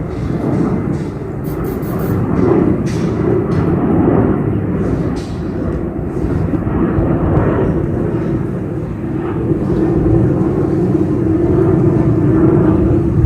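Boeing 737-800 jet airliner climbing out overhead at takeoff power, its CFM56-7B turbofans giving a loud, steady rumble. A humming tone grows stronger toward the end.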